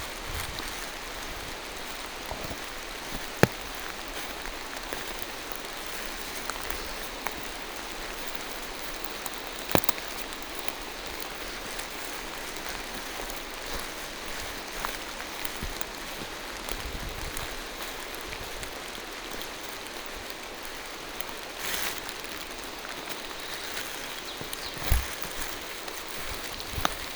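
Steady rain falling through a forest, an even hiss with a few sharper drip-like taps scattered through it.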